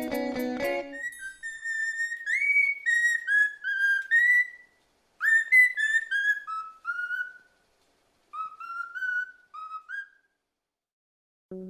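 A songbird singing three phrases of clear, whistled notes, each phrase stepping down in pitch, with short pauses between them.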